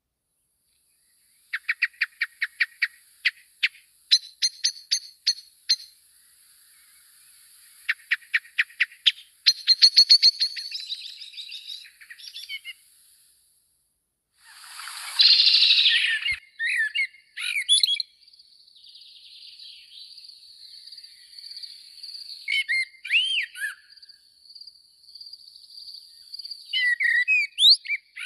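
Small songbirds calling: quick runs of sharp, high chirps, several notes a second, with a brief rustling burst about halfway through. A steady high tone runs underneath in the second half.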